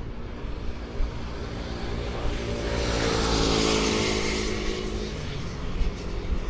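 A car driving past, its engine and tyre noise swelling up and then fading away, the engine pitch dropping slightly as it passes.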